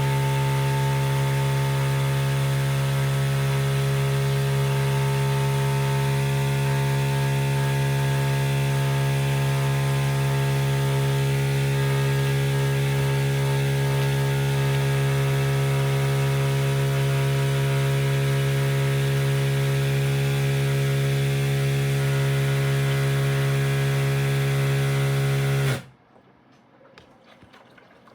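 High-pressure water pump running with a loud, steady buzzing hum as it feeds the washing machine its fill water, cutting off suddenly near the end.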